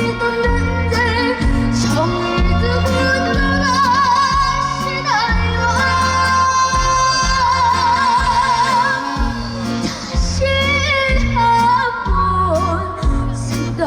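A high voice singing live, holding long notes with a wide vibrato over a backing track with a steady, pulsing bass.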